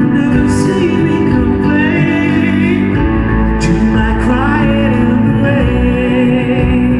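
Live band music with a wavering sung vocal line over it.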